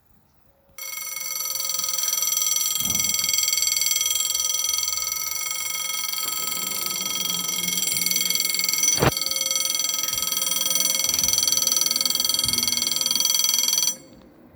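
Level-crossing warning bell ringing continuously. It starts about a second in and cuts off abruptly near the end, with one sharp click about two-thirds of the way through.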